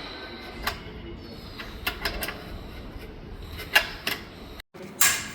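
Scattered sharp clicks and knocks of hard parts and tools being handled, about seven in all, some in quick pairs.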